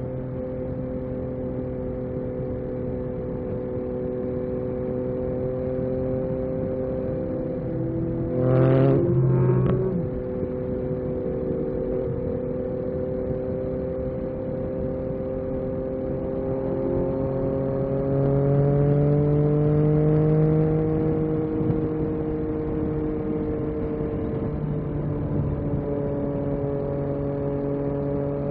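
Yamaha MT-09 SP's three-cylinder engine running at steady riding revs, with a short sharp rev about a third of the way in and the engine note rising a little just past the middle.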